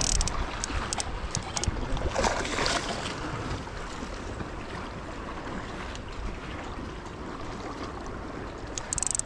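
Sea waves washing against a rocky shore, with a louder surge about two seconds in, and wind on the microphone. A quick run of sharp clicks comes near the end.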